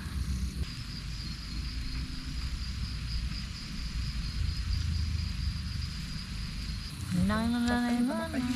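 A cricket trilling steadily on one high note over a constant low rumble; the trill stops about seven seconds in, when a person's voice comes in with a rising pitch.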